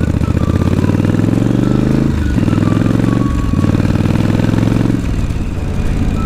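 Yamaha Virago cafe racer's V-twin engine accelerating out of a turn: the pitch climbs, drops at an upshift about two seconds in, climbs again, drops at a second upshift about three and a half seconds in, then climbs once more before easing off near the end.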